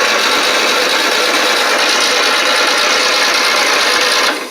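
Starter cranking the engine of an early-to-mid-1980s Simplicity lawn tractor with the choke on, from a jump pack: a steady cranking run of about four seconds that stops suddenly, the engine not catching.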